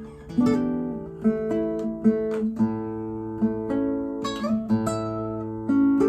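Nylon-string classical guitar, a copy of the Torres FE-18, played fingerstyle: plucked notes ring on over a held bass. There is a short gap at the start before the playing picks up, with a stronger bass note about a third of the way in.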